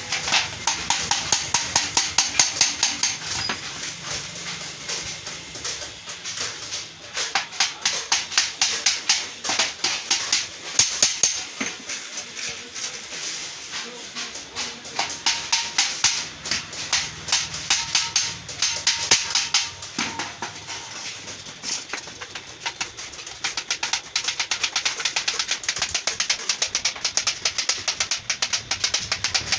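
Quick, steady run of light hammer taps on sheet metal, several a second, with short let-ups.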